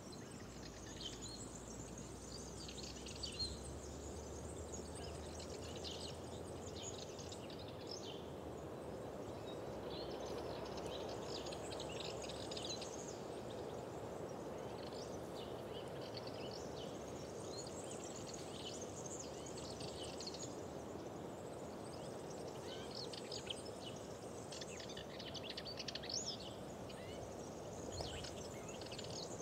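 Several songbirds singing and chirping in quick short phrases throughout, over a steady low rushing background noise that swells a little midway.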